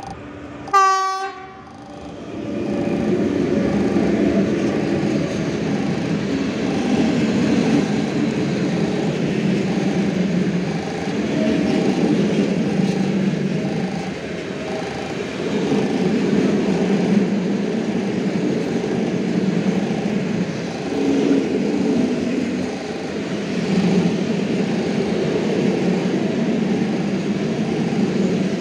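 A short train horn blast about a second in, then a train passing close by: a steady rumble of wheels on rails, with a regular light clicking over the rail joints.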